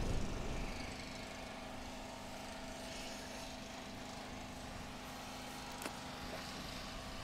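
Steady mechanical hum of a running motor or engine. A low rumble fades out in the first second, and there is one faint click about six seconds in.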